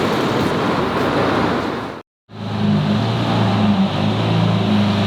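Car engines and street traffic noise. About two seconds in the sound cuts out for a moment, then a car engine runs steadily close by at a low, even pitch.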